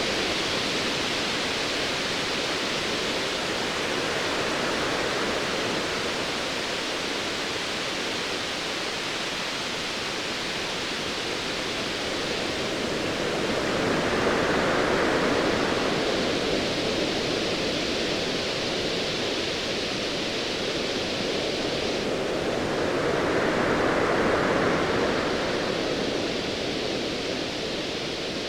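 Ocean waves washing in a steady hiss of surf, swelling louder twice, about halfway through and again near the end.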